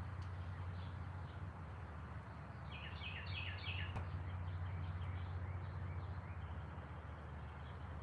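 Wild songbirds chirping outdoors, with a quick run of four falling notes about three seconds in and scattered single chirps. A steady low hum runs underneath.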